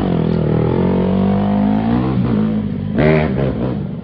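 Dirt bike engine running and revving, its pitch falling and rising, with a sharp rev about three seconds in.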